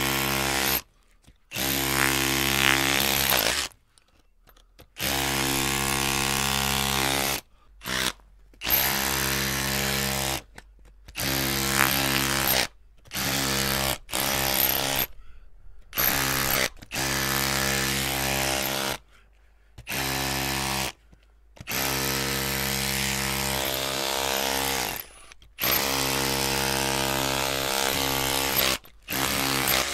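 Electric drill motor running with a steady whine, in bursts of one to several seconds. It stops sharply and starts again about ten times.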